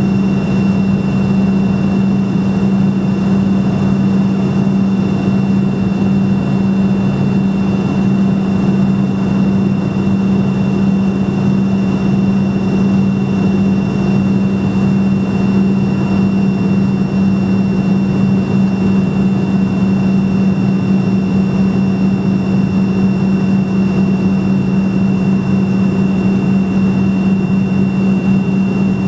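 Steady drone of a Fokker F28 jetliner's rear-mounted Rolls-Royce Spey turbofans heard inside the cabin. A strong low hum runs under a thin, steady high whine, unchanging throughout.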